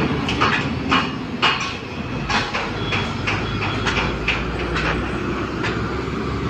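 Heavy vehicle rumbling with many irregular metallic clanks and rattles, a few each second.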